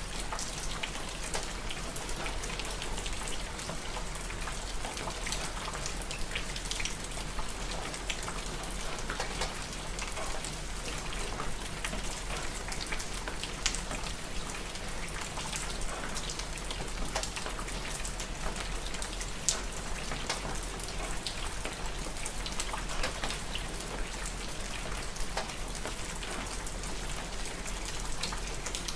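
Steady rain falling on a surface, with many individual drops ticking sharply through an even hiss.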